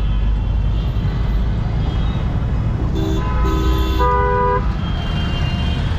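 Street traffic running with a steady engine rumble, and vehicle horns honking three short blasts about halfway through; the last blast is higher-pitched.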